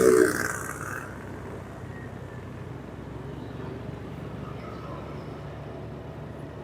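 Road vehicle engine running steadily in traffic, a low even hum, with a loud burst of passing-traffic noise in the first second.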